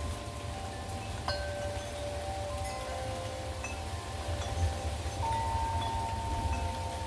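Wind chimes ringing in gusty wind, several tones struck one after another and left to ring over each other, with a steady low rumble underneath.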